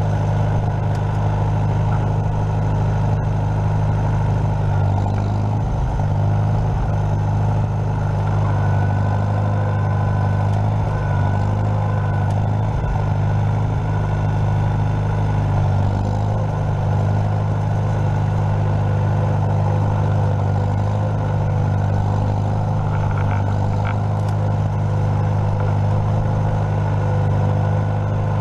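Tractor engine running steadily at a constant speed, with a faint steady whine above the engine note.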